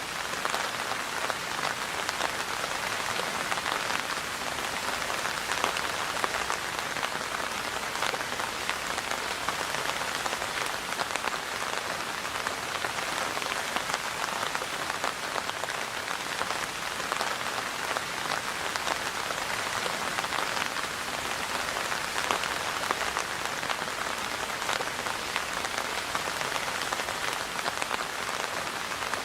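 Steady rain falling, an even hiss of many drops pattering on a surface, with no rise or fall.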